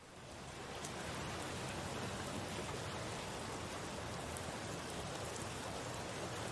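Steady rain falling, an even hiss with a few scattered drops ticking, fading in from silence over about the first second.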